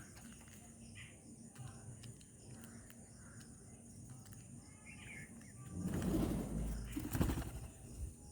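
A few faint bird chirps, then a louder rustling flutter of wings about six seconds in that lasts a second or two.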